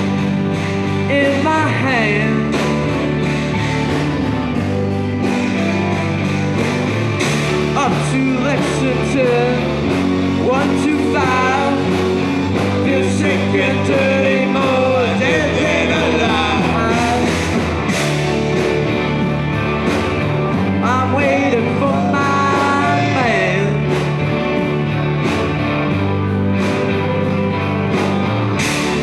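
Live rock band playing, with electric guitars over bass and drums and bending melodic lines on top.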